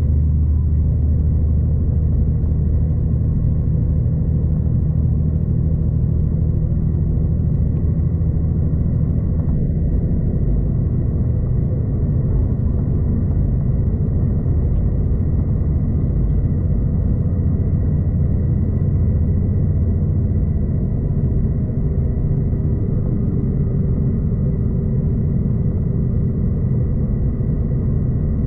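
V/Line passenger train running along the line, heard from inside the carriage as a steady low rumble of wheels and running gear, a little heavier for the first ten seconds or so, with a faint steady high whine above it.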